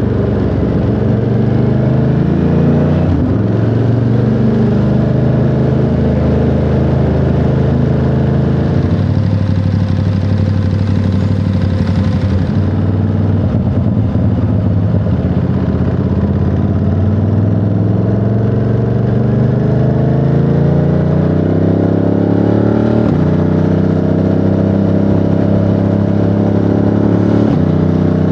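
Ducati Monster 937's L-twin engine running under way, its note stepping abruptly several times as with gear changes and rising steadily under acceleration in the second half.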